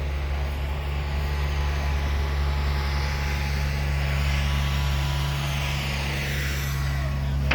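An aircraft passing overhead. Its engine noise swells over a few seconds, peaks near the end, then begins to fade, over a steady low hum.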